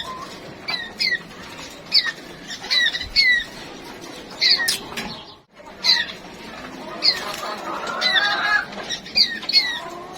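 Small caged songbirds calling: a quick run of short, sharply falling chirps, repeated again and again, with a stretch of warbling song about eight seconds in.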